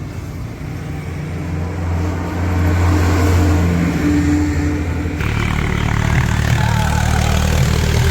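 Tractor engine running steadily, growing louder about two seconds in, with its note changing abruptly about five seconds in.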